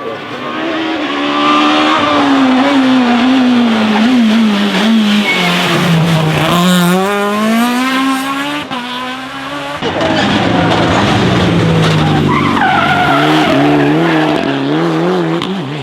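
Rally car engine revving, its pitch rising and falling and wavering over and over, with tyres squealing.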